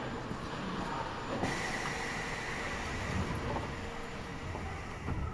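Running noise inside an Eidan 6000 series subway car, heard from floor level as the train nears a station stop; a steady hiss with a faint high tone comes in suddenly about a second and a half in.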